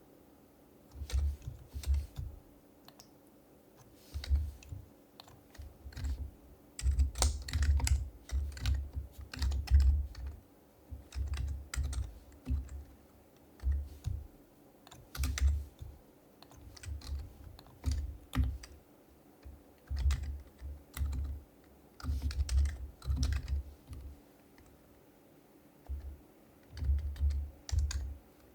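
Typing on an HHKB Professional HYBRID Type-S keyboard with silenced Topre switches: soft, deep keystroke thuds in quick bursts of one to two seconds, broken by short pauses.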